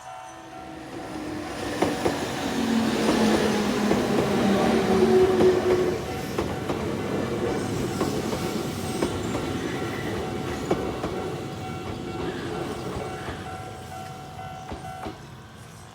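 A Nankai Koya Line electric train passes over a level crossing. It builds to its loudest a few seconds in and then fades, its wheels clacking over the rail joints. The crossing's warning bell rings steadily and stops shortly before the end.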